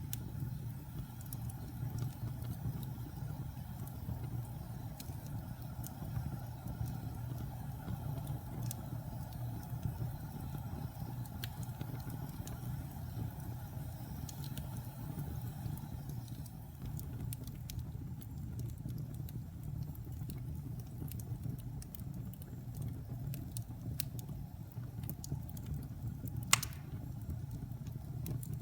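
Wood fire burning in a fireplace: a steady low rumble with scattered faint crackles, and one louder sharp pop near the end.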